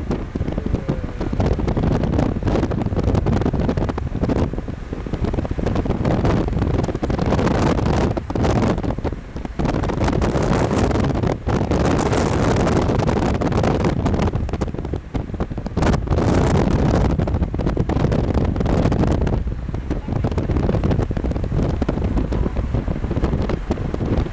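Wind buffeting the microphone: a loud, rough rumble that wavers in strength, with a few brief drops.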